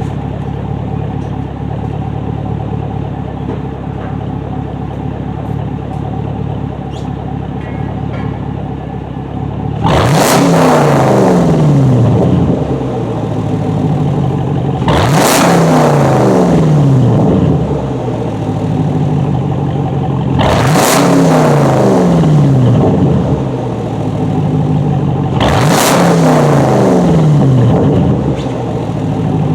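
Fifth-gen Camaro SS's 6.2-litre V8 through a straight-piped exhaust, with the muffler and resonator deleted, idling for about ten seconds. It is then revved four times, about five seconds apart, each rev rising sharply and falling back to idle.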